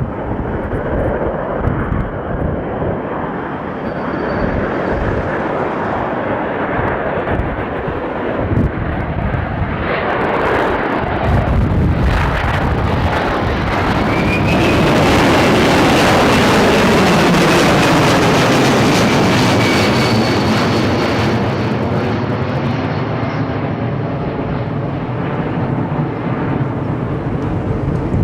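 Jet airliner flying low past overhead: its engine noise builds, is loudest about halfway through, then fades, with a high whine that falls in pitch as it goes by.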